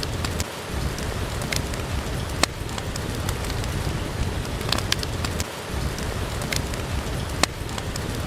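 Steady rain with a low rumble under it, and sharp pops from a crackling wood fire every second or so.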